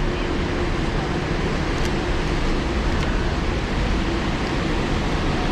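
Steady city traffic noise mixed with heavy rain, an even wash of sound with no distinct events.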